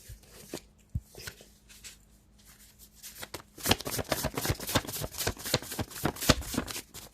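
A deck of cards being shuffled by hand: a few scattered flicks at first, then a quick, dense run of card clicks and rustles from about three and a half seconds in.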